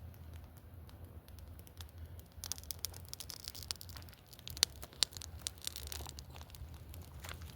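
Wood cooking fire crackling, with scattered sharp pops; about two and a half seconds in the crackle thickens into a denser run of pops over a hiss.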